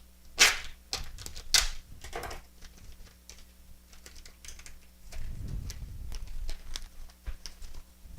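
Shredded coconut being added to a saucepan of pecan icing and stirred in, with a spoon clicking and scraping against the pan. A few sharp scrapes come early, then a denser run of clicking stirring starts about five seconds in.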